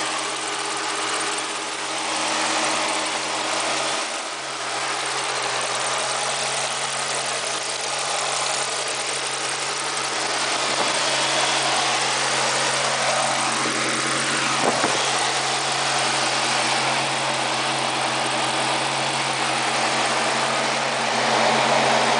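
2007 Dodge Charger R/T's V8, fitted with a Sparrow cam, milled heads and JBA headers, idling steadily with the hood open.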